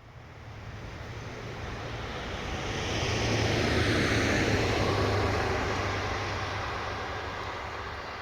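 A train passing by, growing louder to its peak about four seconds in and then slowly fading, with a low steady hum under the rushing noise.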